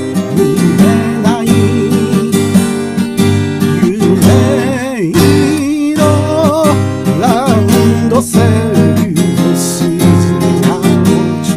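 Strummed acoustic guitar with a melody sung over it in long, wavering notes.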